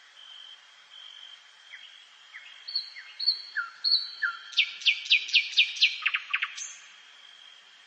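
A songbird sings one phrase. Short, spaced notes speed up into a fast run of descending notes, which ends in a brief high flourish. Under it, a faint high tone pulses steadily.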